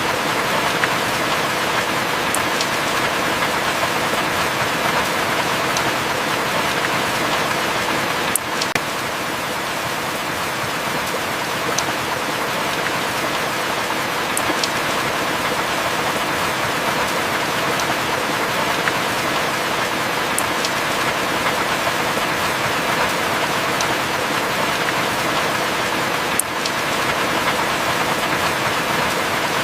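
Heavy rain falling steadily, a dense even hiss with a few sharp drips ticking over it.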